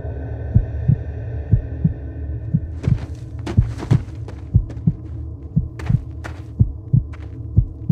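A heartbeat thumping steadily about twice a second over a low hum, with a high ringing tone that stops about three seconds in. From then on, crunching footsteps and rustling on dry fallen leaves.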